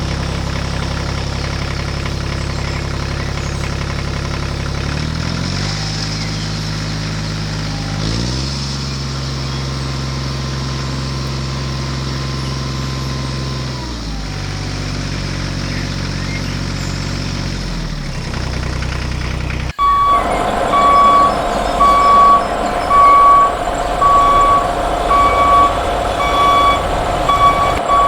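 A truck engine running at a steady pitch that steps up and down several times, cut off suddenly about 20 seconds in by a truck's reversing beeper beeping about once a second over a running engine.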